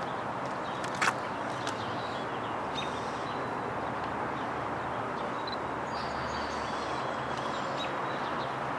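Steady outdoor background noise with faint, scattered bird chirps, and one sharp click about a second in.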